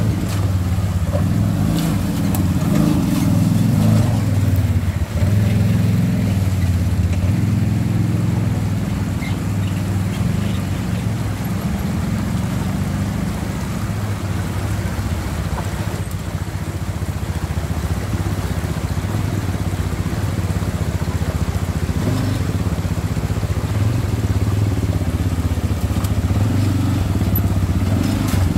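ATV engine running steadily, its pitch rising and falling briefly a few seconds in and again near the end.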